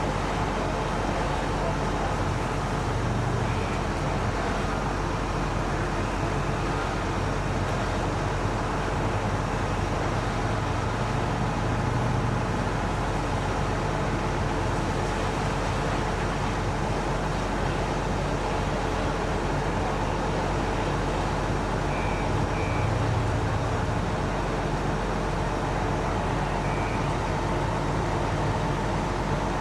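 Fire ladder truck's engine running steadily, a constant drone with a few faint steady tones above it.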